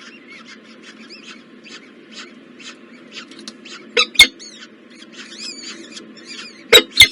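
Nestling birds cheeping in the nest: a steady run of short, high chirps, about three or four a second, some sliding in pitch. Two pairs of loud sharp knocks cut in, one about four seconds in and one near the end.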